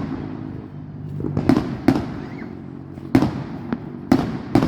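Fireworks display: a string of sharp bangs, about five of them at uneven gaps of half a second to over a second, each followed by a low rumbling echo.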